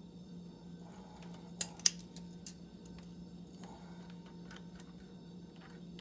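Hand tools and parts clicking and clinking during work on a car's PCV hose and connector: a few sharp clicks, the loudest two close together about one and a half seconds in. A steady low hum runs underneath.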